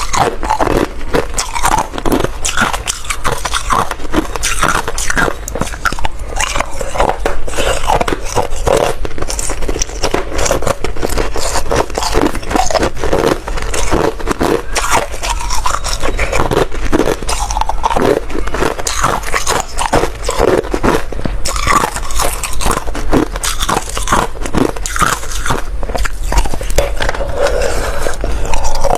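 A person biting and chewing ice close to the microphone: continuous crunching with many quick, sharp cracks.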